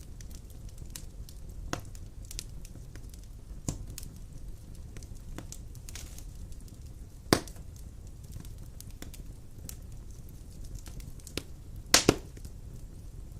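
Wood fire of large logs burning in a stone fireplace: a steady low rumble of flame with scattered sharp crackles and pops, the loudest a single snap about halfway and a quick double snap near the end.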